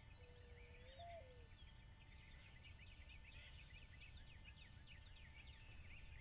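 Faint bird calls: a thin, high trill of quickly repeated notes for about the first two seconds, then a run of short high chips, each falling in pitch. A single low whistled note rises and falls about a second in, over a steady low rumble.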